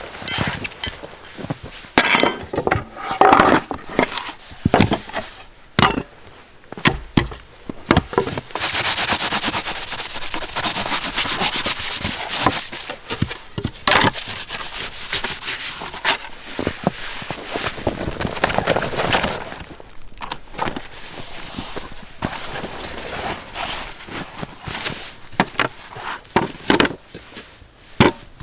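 Handling noises: a run of irregular knocks and clicks, with a long stretch of rubbing or scraping from about eight to twenty seconds in.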